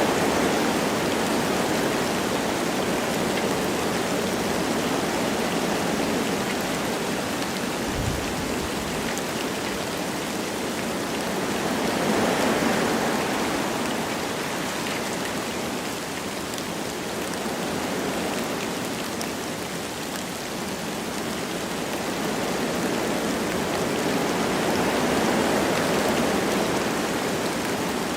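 Wind blowing through forest trees with light rain falling: a steady rushing that swells and eases in slow gusts. A brief low thud about eight seconds in.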